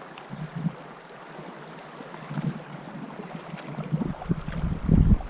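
Wind buffeting the microphone in irregular low gusts, the strongest near the end, over a steady background rush of river water.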